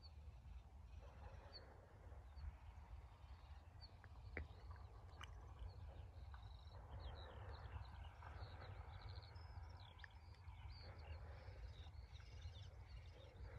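Faint chirping of small birds, a few short calls at first and more frequent from about seven seconds in, over a low steady rumble.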